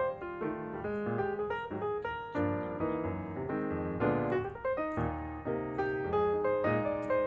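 Background piano music: a melody over chords, notes struck at a steady moderate pace.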